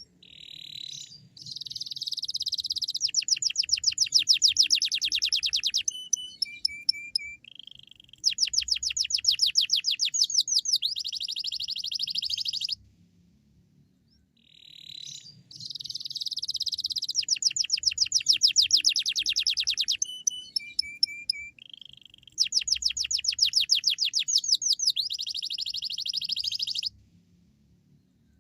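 Domestic canary singing: two long song bouts of rapid trills and chirps of repeated high notes, with a short pause between them.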